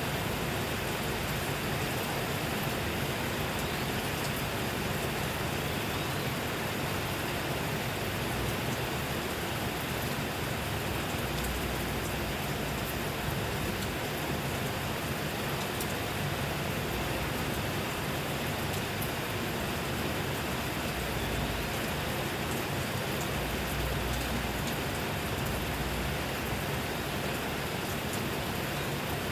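Steady rain falling, an even hiss with many small drop ticks through it. A low rumble swells a few times.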